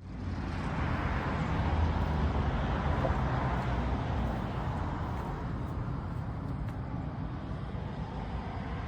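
A Trane XB10 central air conditioner's outdoor unit running: a steady low hum from its Climatuff reciprocating compressor under the rush of the condenser fan. Road traffic passes, loudest in the first few seconds.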